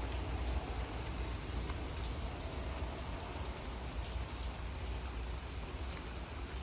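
Heavy rain falling steadily, with scattered drop ticks and a low rumble of strong wind buffeting the microphone.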